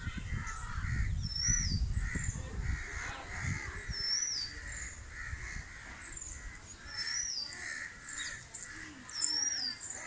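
Birds calling: many short calls overlapping, and one bird repeating a brief wavering whistle about every three seconds. Wind rumbles on the microphone until about three and a half seconds in.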